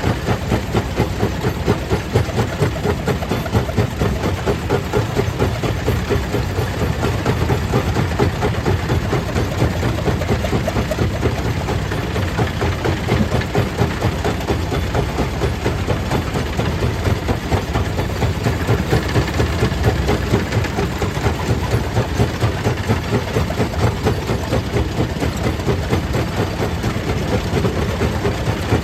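Stone crusher plant machinery running steadily, with a regular rhythmic pulsing.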